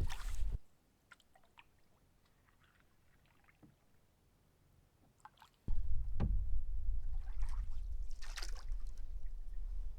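Low wind rumble on the microphone, which drops away abruptly to near quiet with a few faint clicks for about five seconds, then returns. A brief rushing swish comes about eight and a half seconds in.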